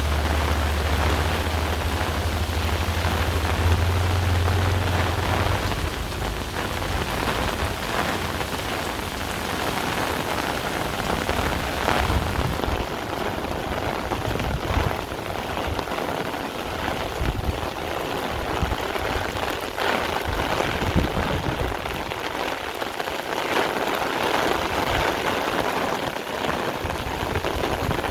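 Heavy rain falling steadily, with a low rumble under it for the first few seconds that then fades out.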